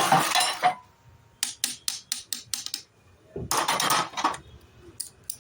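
Metal gearbox parts and hand tools being handled: a short clatter, a run of about six sharp clinks, a second clatter, then a couple more clicks near the end.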